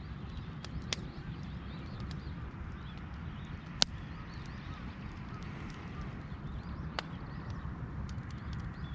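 Wood campfire crackling, with three sharp pops standing out over a steady low rumble.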